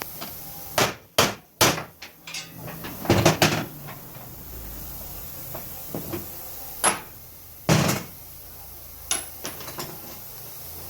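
Irregular knocks and clunks of metal tools and car parts being handled during CV joint replacement. The sounds come in several short clusters of sharp strikes and brief scrapes, with pauses between.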